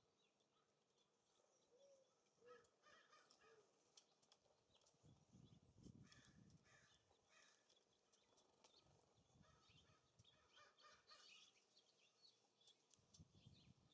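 Near silence: faint gusts of wind on the microphone, with scattered small clicks and a few faint, short bird chirps.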